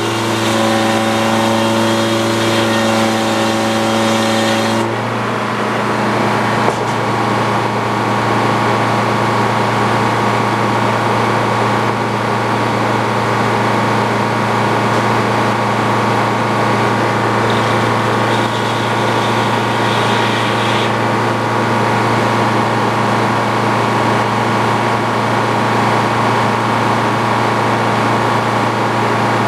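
Sawmill running under engine power: a steady low engine hum throughout, with a pitched whine over it for the first five seconds that then gives way to a rougher, noisier sound. A single sharp click about seven seconds in.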